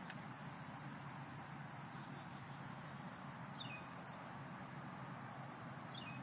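Faint outdoor insect chirring with a pulsed high trill about two seconds in, and three short, falling, high chirps later on.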